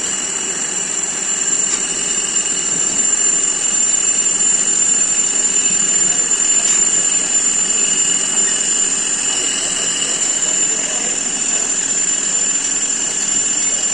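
Steady metalworking machine noise: an even, loud hiss with a thin high whine held throughout.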